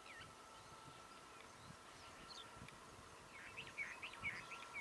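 Faint bird chirps, short calls that glide in pitch, with a quick run of several calls about three and a half seconds in, over a faint steady high whine.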